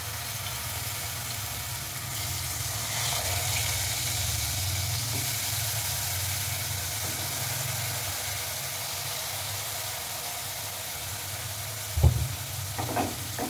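Spice-coated brinjal slices sizzling in shallow oil in an aluminium frying pan, a steady frying hiss as the slices are laid in one after another, over a low steady hum. A single knock about twelve seconds in.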